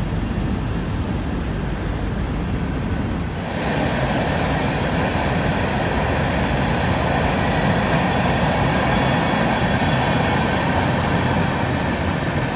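Freight train rolling past: a low rumble, then about three seconds in the clatter and rush of open hopper cars' wheels on the rails suddenly gets louder and brighter, and stays steady.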